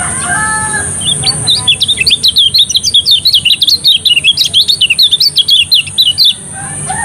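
Lemon-bellied white-eye (kecial kuning) singing a fast, continuous run of high chirping notes, starting about a second in and stopping a little before the end. A rooster's crow trails off in the first second.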